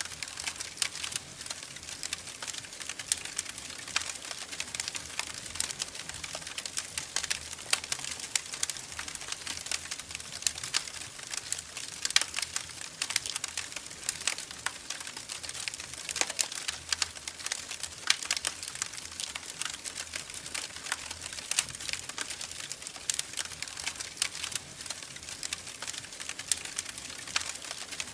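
Wood fire crackling in a fireplace: a dense run of irregular sharp pops and snaps over a soft steady hiss.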